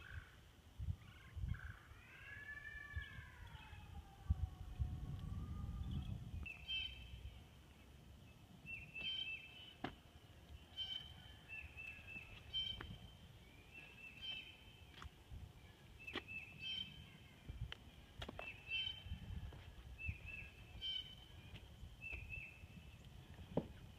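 A songbird calling over and over, a short high phrase repeated roughly every second. Under it are low thuds and occasional sharp clicks of footsteps on the wooden ties and gravel of the railroad track, and a wavering, sliding call in the first few seconds.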